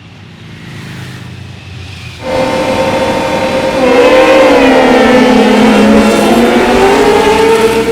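Racing motorcycle engine at high revs, loud, its pitch dipping and climbing again. A quieter low rumble comes first, and the loud engine note starts suddenly about two seconds in.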